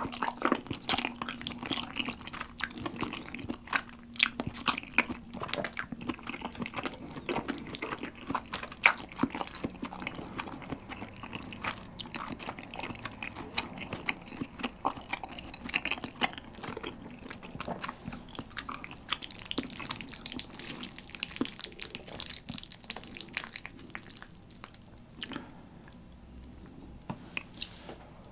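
Close-miked chewing and wet mouth sounds of eating saucy spaghetti: irregular soft smacks and clicks, with a brief hissy stretch near the end, likely noodles being drawn in.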